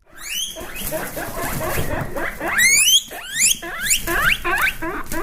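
Guinea pig squealing: a rapid string of high calls, each rising in pitch, the wheeking of an excited guinea pig.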